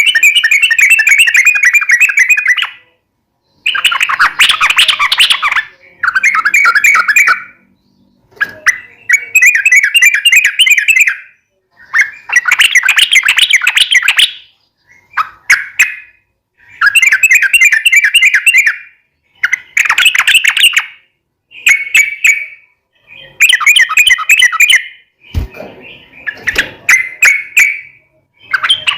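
Yellow-vented bulbul (trucukan) singing loudly and prolifically: about a dozen bubbly phrases of rapid chattering notes, each one to two seconds long, with short pauses between. A brief low thump comes about 25 seconds in.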